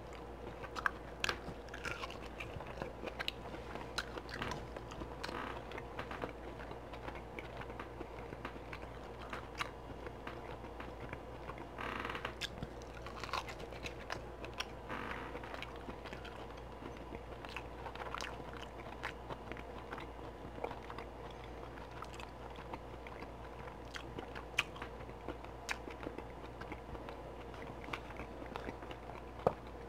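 Close-up mouth sounds of a person eating barbecue beef ribs: chewing and biting meat off the bone, with many small wet clicks and smacks.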